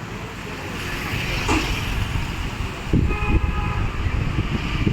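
Tractor engine running with a low, uneven rumble; a horn sounds for about a second, about three seconds in.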